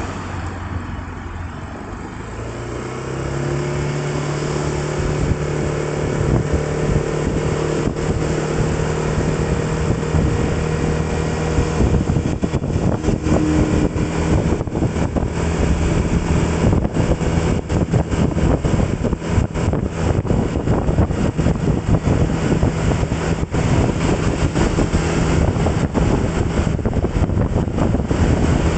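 Vehicle engine picking up speed, its pitch rising over the first few seconds, then running steadily at cruising speed with road and wind noise.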